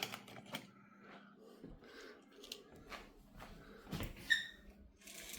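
Faint, scattered clicks, taps and rustles of small items and packaging being handled, with a slightly louder knock about four seconds in followed by a brief short squeak.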